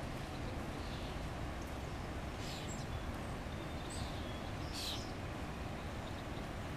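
A few short, high bird chirps, scattered from about two and a half to five seconds in, over a steady low outdoor rumble.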